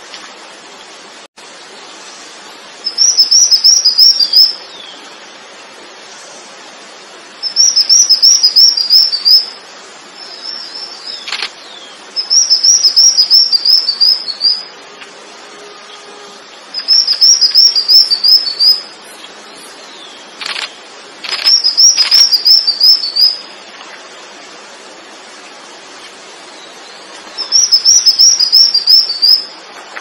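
A songbird repeating one short, fast phrase of high, quick chirping notes, about seven times, each phrase lasting around two seconds with a few seconds' pause between. A few brief single sweeping calls come between the phrases.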